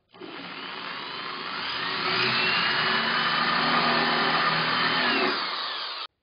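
Electric power tool motor running, its whine rising in pitch over the first two seconds, then holding steady, dipping slightly near the end before cutting off suddenly.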